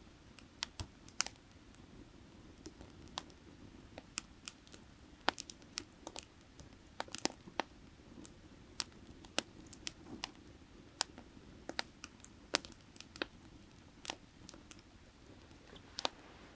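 Burning firewood crackling, with sharp, irregular pops coming every half second or so, over a steady low rush of valley creek water.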